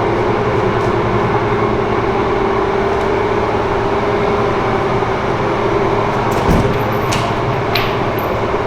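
Steady, loud machine drone with a constant hum, typical of body-shop equipment running, with a short low knock about six and a half seconds in and a couple of faint clicks after it.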